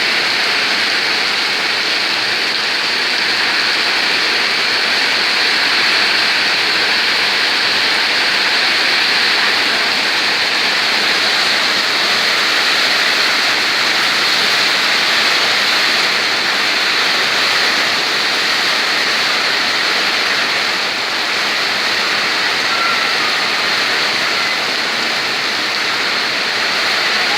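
Heavy rain pouring down in a storm: a loud, steady, even hiss of rain.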